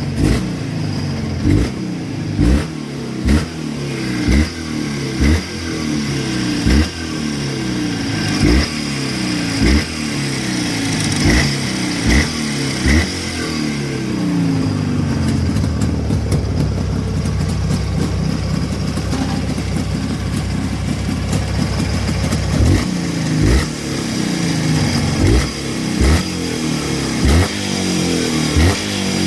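Jawa 638.5 motorcycle's two-stroke twin engine, warmed up, revved in short throttle blips about once a second, held at higher revs for several seconds around the middle, then blipped again.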